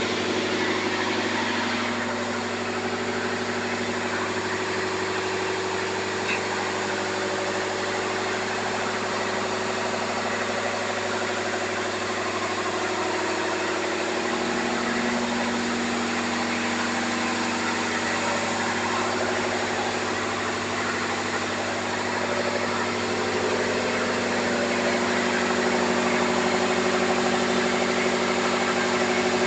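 Marine diesel machinery running steadily in a ship's engine room: a continuous loud hum with a dense mechanical clatter. The hum's note shifts slightly about halfway through.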